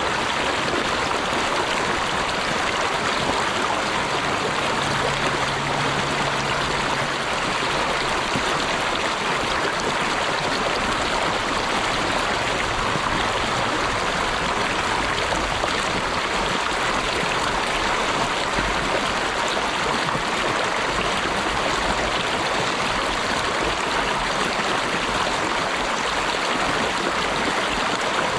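Stream water flowing steadily, an even rushing and trickling with no break.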